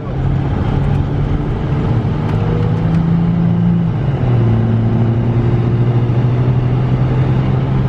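Car engine and road noise heard from inside a moving car's cabin, a steady drone whose engine note drops in pitch about four seconds in.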